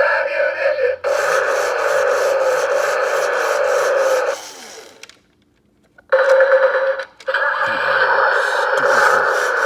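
Toy monster truck's small built-in speaker playing its recorded sound effects: a harsh, tinny, buzzing sound that cuts out for about a second just past the middle, then starts again and stops briefly once more.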